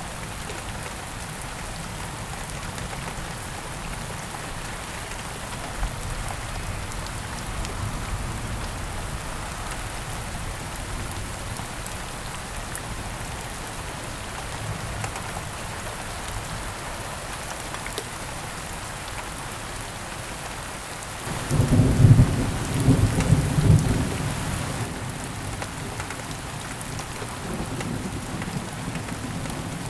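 Steady rain falling, with a roll of thunder about two-thirds of the way through that rumbles low and loud for three or four seconds before fading back under the rain.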